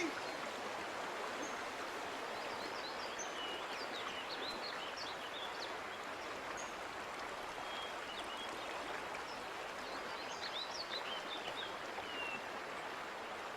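Steady rushing of a flowing stream, with small birds chirping on and off above it, busiest a few seconds in and again near the end.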